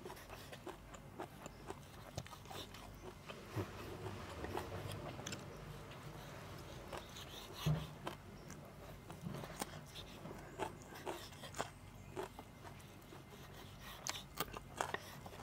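A person chewing, with soft irregular mouth clicks and small crunches as sticky rice, spicy minced raw-beef koi and crisp fresh vegetables are eaten, picked up close by a clip-on microphone.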